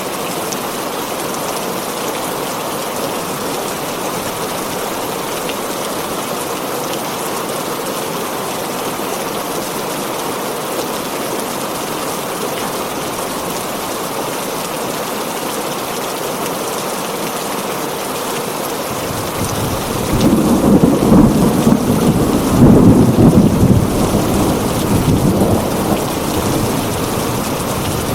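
Heavy rain drumming steadily on a tin roof. About two-thirds of the way through a deep roll of thunder swells up, rumbles for several seconds, then dies away under the rain.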